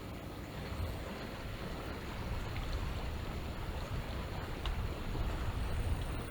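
Seaside ambience: small waves washing on the shore under a low rumble of wind, a steady noise that slowly grows louder.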